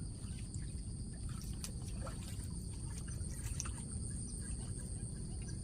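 Insects chirring steadily in two high, unbroken tones, over a continuous low outdoor rumble with a few faint clicks.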